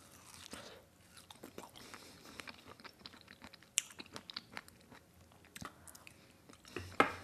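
Close-up chewing of chocolate-fondue-dipped strawberries: soft, wet mouth sounds with many small clicks and a few sharper ones, one about four seconds in and one near the end.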